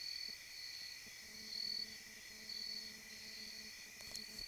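Night insect chorus: a steady high trill with a higher pulsing chirp that repeats about once a second. A faint low hum comes in about a second in, and there are a couple of small clicks near the end.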